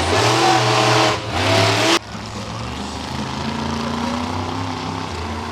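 Monster truck engine revving hard, loud for about two seconds, then dropping suddenly to a steadier, quieter running whose pitch creeps slowly upward.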